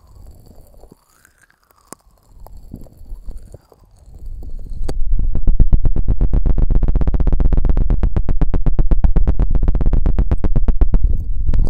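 Very fast, even scratching strokes right on the microphone, about twenty a second, making a loud, buzzing rumble. It sets in about four seconds in, after a few faint scattered touches.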